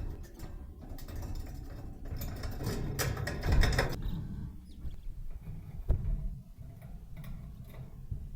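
Pet budgerigar noises: scratchy chattering and rustling, busiest in the first half, with a sharp click about six seconds in, over a low rumble.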